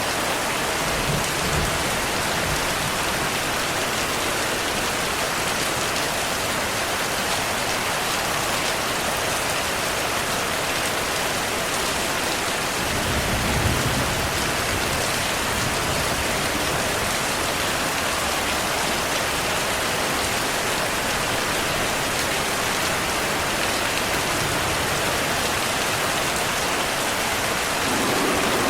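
Steady heavy rain falling, a constant dense hiss, with low rolls of distant thunder, briefly near the start and more strongly about halfway through.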